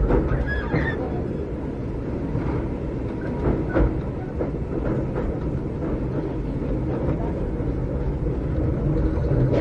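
Inside a Keikyu old 600 series electric train car with Toyo Denki electrical equipment, running on the rails with a steady rumble. There are a few sharp knocks from wheels passing rail joints about three and a half seconds in, and a brief squeal near the start.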